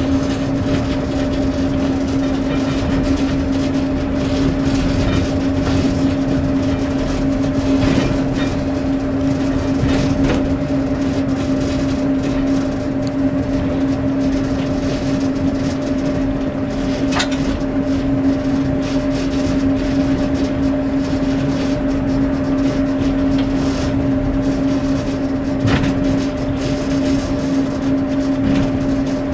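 Class 141 'Pacer' diesel railbus running along the line, heard from the driver's cab: a steady droning engine note over the rumble of the wheels on the rails, with a few short knocks.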